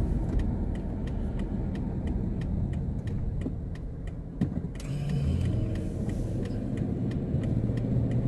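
Car turn signal clicking steadily, about two to three ticks a second, over the car's engine and road rumble heard inside the cabin. About four and a half seconds in there is a short knock, after which the engine note rises as the car pulls away.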